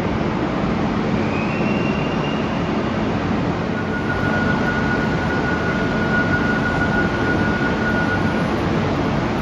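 A train running at a station, a steady rail rumble with thin high squealing tones: a short one about a second in and a longer steady one from about four seconds in until near the end.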